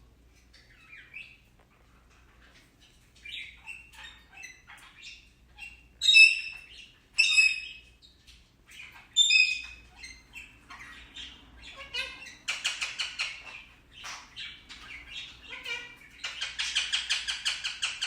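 Indian ringneck parakeet chirping and calling, with loud squawks about six, seven and nine seconds in, then two long bouts of rapid, fast-pulsed chattering near the end.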